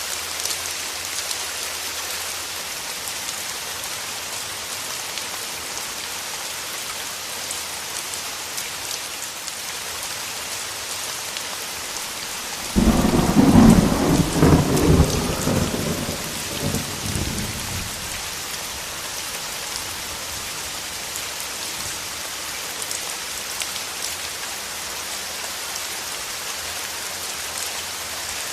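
Steady heavy rain, with a thunderclap about halfway through: a sudden sharp crack that rumbles away over about five seconds, then the rain alone again.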